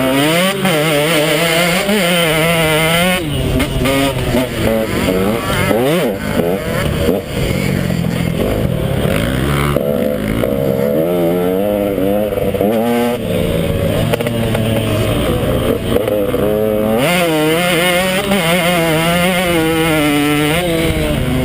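KTM 150 XC two-stroke dirt bike engine being ridden hard, revving up and down continuously with the throttle, its pitch rising and falling every second or two.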